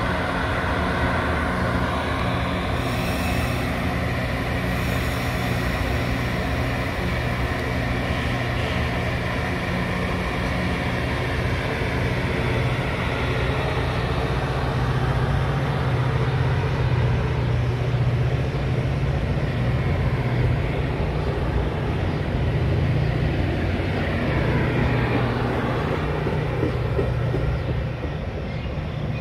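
Diesel locomotive engine running with a steady low drone as a train comes up on the line. Several pitches glide up and down briefly near the end as it draws past.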